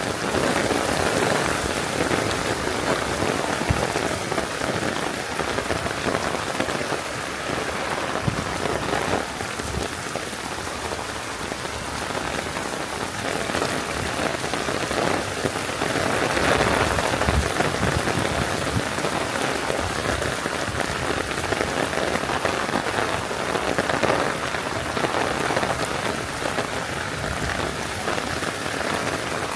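Heavy rain coming down steadily, a dense hiss peppered with many close individual drop hits, swelling a little about halfway through.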